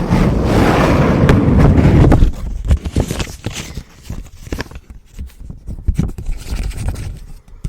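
A paper US dollar bill rubbed against the microphone, making a loud rustling rumble for about two seconds that stops abruptly. Quieter crinkles and taps of the bill being handled follow.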